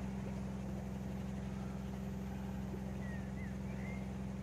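Steady low hum of a narrowboat under way, running evenly. A few faint bird chirps come in about three seconds in.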